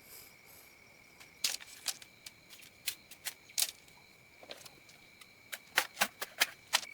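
A run of sharp, irregular clicks and knocks, loudest in a quick cluster near the end, over a steady high-pitched drone.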